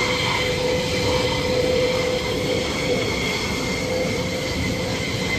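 Aircraft engine running steadily: a continuous rush of noise with a high, steady whine over it.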